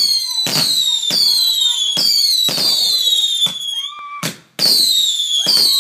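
Whistling fireworks going off in rapid succession, about two a second, each a sudden crack followed by a short falling whistle. There is a brief break about four seconds in before the barrage resumes.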